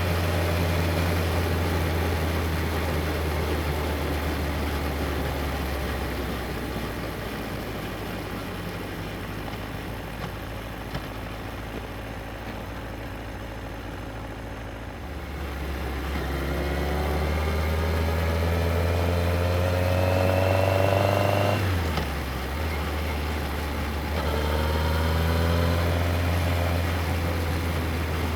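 Yamaha XJR1300's air-cooled inline-four engine running on the move. After a quieter stretch it accelerates about halfway through with a rising pitch, drops sharply at a gear change about three-quarters of the way in, then climbs again in the next gear.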